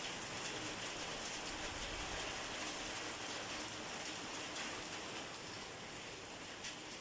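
Steady rainfall pattering on a surface, an even hiss with scattered drop ticks.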